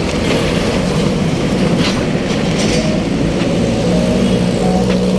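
Steady rumble of riding a bicycle through road traffic, with a low hum and a few short clicks and rattles.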